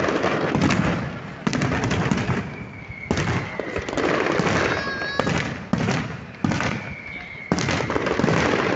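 Fireworks bursting in quick succession: sharp bangs about once a second with crackling between them, and a whistling tone that glides slightly down a few times.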